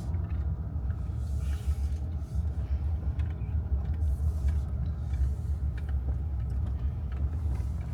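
Steady low rumble of a truck driving on the road, engine and tyre noise heard from inside the cab.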